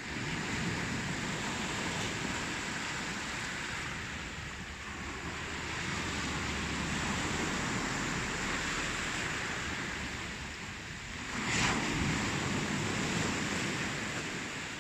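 Ocean surf: waves washing in continuously, swelling and easing, with one sharper wave crash about three-quarters of the way through.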